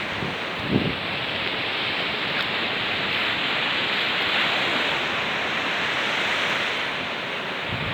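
Steady rush of water from a small waterfall and stream pouring into the sea, an even hiss at constant level. A brief low thump about a second in.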